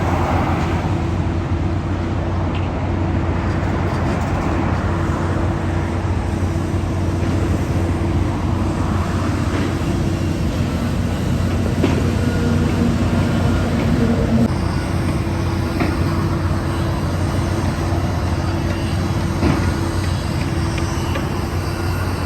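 Steady vehicle running noise, a low constant hum with road noise under it, as from a car on the move.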